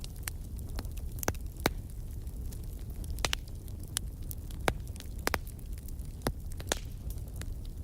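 Wood fire crackling: sharp, irregular pops and snaps over a steady low rumble of the flames.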